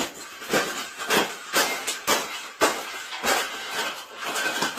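Rustling and crinkling of a sheet of material being folded and creased by hand, in short repeated strokes about twice a second.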